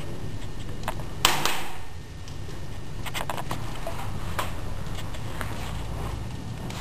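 Wood fire crackling in a fireplace: scattered small snaps and one louder pop a little over a second in, over a steady low rumble.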